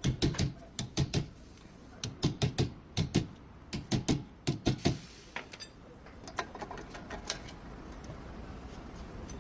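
Sharp knocks in quick clusters of three or four, repeated for about five seconds, then fainter, scattered clicks.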